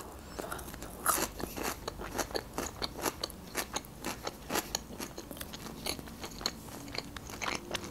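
Crisp, crunchy chewing of a bitten piece of fresh cucumber: a run of irregular crunches, about two or three a second.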